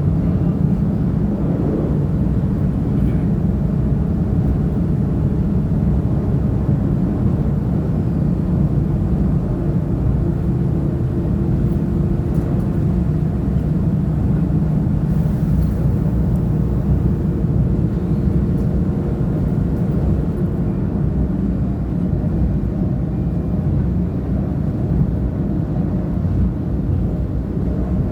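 CP diesel multiple unit UDD 0467 running along the line, heard on board: a loud, steady low rumble of engine and wheels on rail that keeps an even level, with a faint steady tone in the middle and a few light clicks.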